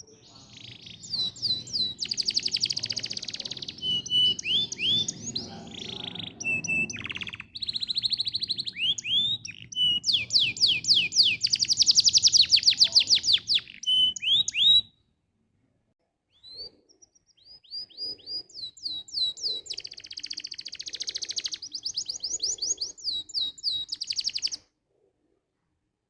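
Domestic canary singing its long song of fast trills and rolls: runs of rapid repeated chirps that change pitch from phrase to phrase. It sings in two bouts, a long one and then a shorter one after a brief pause, with a low background rumble under the first.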